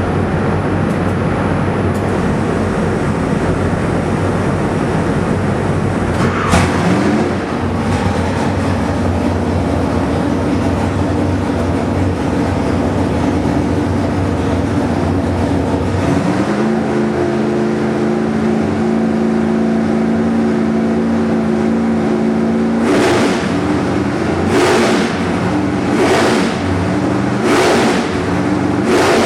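Nitrous small-block Chevy V8 running steadily, then brought up to a higher held speed about 16 seconds in. Near the end, five short hisses about a second and a half apart break over it: the nitrous system being purged to clear hot nitrous and fuel from the lines before the run.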